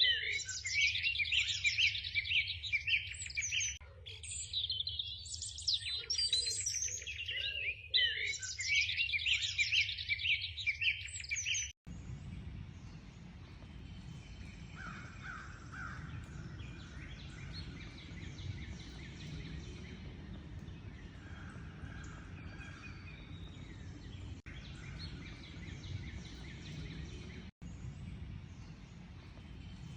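A loud, dense chorus of small songbirds, with rapid chirps and trills overlapping. About 12 seconds in it cuts off abruptly to a quieter outdoor recording with a steady low rumble, fainter distant birdsong and a few lower calls.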